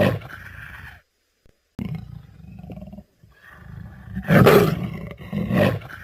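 A wild animal roaring: loud, harsh calls near the start and again about four and a half and five and a half seconds in, with abrupt silent gaps between edited clips.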